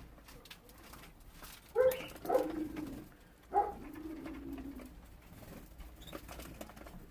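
Two low cooing bird calls, each a short higher note dropping into a longer held note, the second starting about two seconds after the first. Faint ticks and rustling run underneath.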